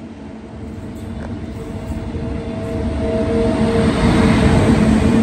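A train approaching, its rumble growing steadily louder.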